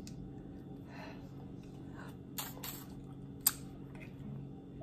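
Quiet eating sounds of a person chewing seafood close to the microphone, with a few sharp mouth clicks about two and a half to three and a half seconds in, over a steady low hum.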